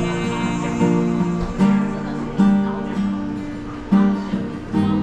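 Acoustic guitar strummed without singing, a new chord struck roughly every second in an instrumental passage of the song.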